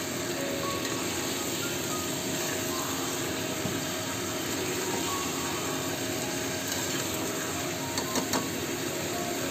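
Chicken pieces sizzling steadily as they fry in spice paste in a cast-iron kadai, stirred with a metal slotted spatula. A few quick clicks of the spatula against the pan come near the end.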